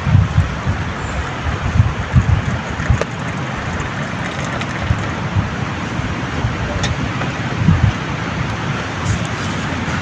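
Strong storm wind rushing and gusting, buffeting the microphone in uneven low rumbles over a steady hiss.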